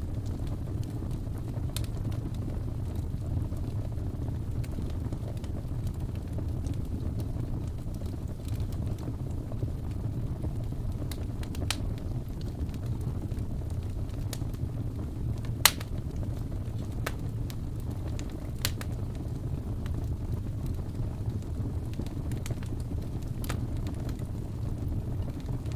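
Wood fire burning with a steady low rumble, broken by scattered sharp crackles and pops, the loudest about two thirds of the way in.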